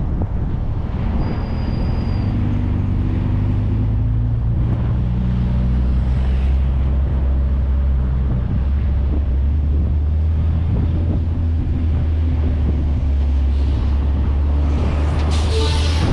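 A 1994 VW Gol with its 1.6 L CHT engine driving on the highway, heard from a camera mounted outside the car: a steady rumble of wind, tyres and engine hum. Near the end a brief louder rush sweeps through.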